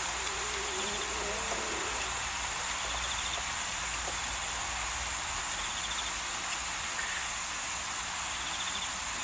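Insects chirping over a steady high hiss, with a short trilled chirp about every two to three seconds.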